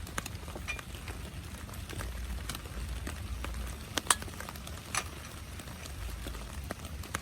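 Steady heavy rain on a tent, with scattered sharp taps and clicks of drops or small knocks; the loudest comes just after four seconds in, with another about a second later.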